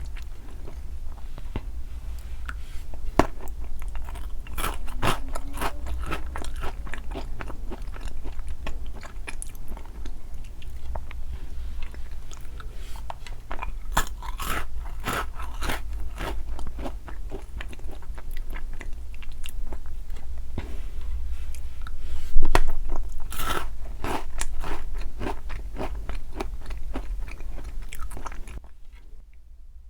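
Close-miked chewing and biting of sweets, with crunching and sticky clicks, over a steady low hum; it stops shortly before the end.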